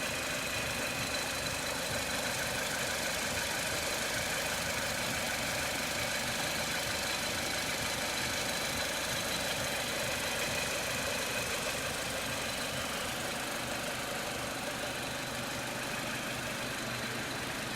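Lada Largus car engine idling steadily and evenly, running smoothly ("like clockwork") on its first run after standing for seven months.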